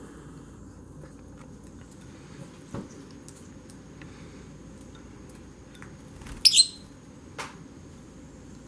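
Lovebird giving one short, sharp, high chirp in two quick parts about two-thirds of the way through, with a few light clicks before and after it.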